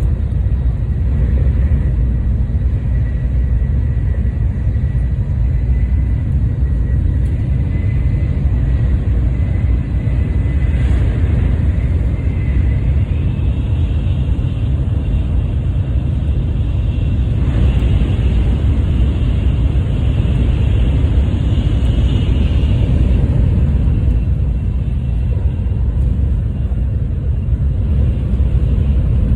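Tokaido Shinkansen high-speed train running at speed: a steady low rumble with a faint high whine that steps up in pitch about halfway through.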